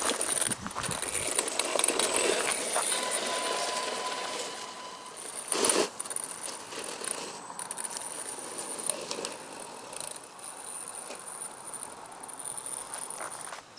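An RC truggy with a Leopard 4074 brushless motor running on a dirt track: a thin high motor whine that drops out a few times, over the crunch and rattle of the truck on the dirt. A sharp clatter about six seconds in is the loudest sound.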